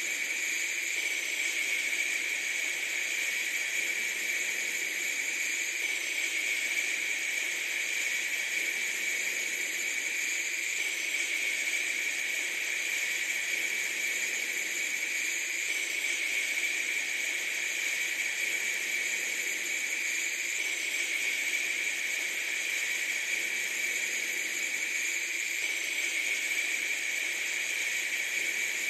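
Steady, unbroken hiss, even in level throughout, with a faint pattern that repeats about every five seconds.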